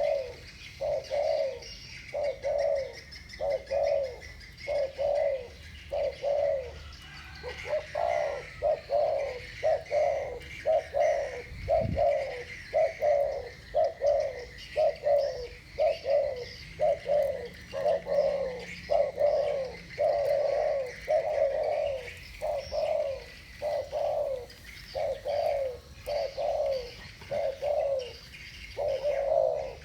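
Two spotted doves of the deep 'thổ bầu' voice type cooing against each other, a steady unbroken run of short low coos at about one a second. A brief low thump comes about twelve seconds in.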